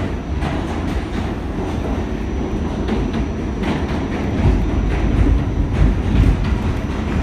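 R46 subway train running at speed, heard from on board: a steady heavy rumble with irregular clicks of the wheels over rail joints and a faint high whine.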